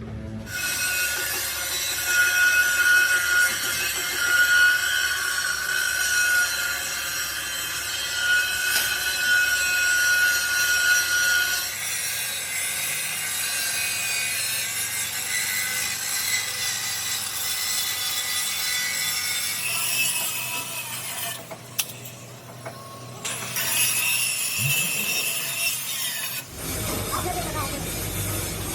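Workshop metalworking noise on truck parts: a continuous sawing or grinding sound with a steady whine in the first part, changing abruptly several times.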